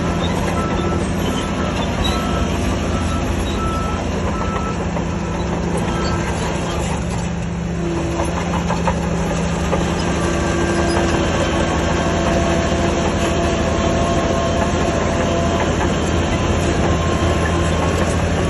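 Diesel engine of heavy earthmoving machinery running steadily, with a reversing alarm beeping about twice a second for the first six seconds and then stopping. The engine grows a little louder from about ten seconds in.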